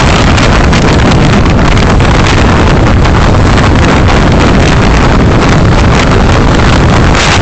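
Loud, steady road and wind noise from a car driving, picked up by a dashcam microphone, with no distinct events.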